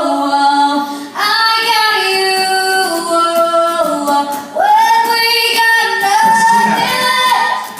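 Female voices singing a slow phrase of long held notes that step from pitch to pitch, the last note fading out at the end.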